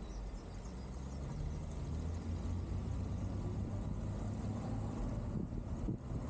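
Tow vehicle driving on the road: steady low engine and road rumble, with wind buffeting the microphone.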